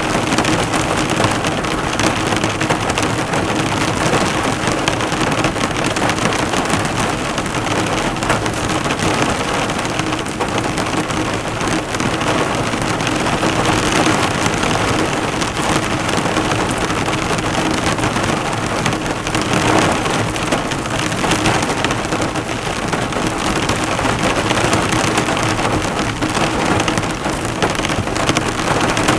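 Heavy rain falling hard on a car, drops pattering and bouncing off the hood in a dense, steady wash with no let-up.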